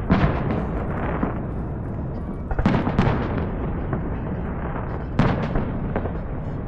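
Fireworks going off: a sharp bang right at the start, two more about two and a half to three seconds in, and another about five seconds in, each trailing off in crackle and rumble.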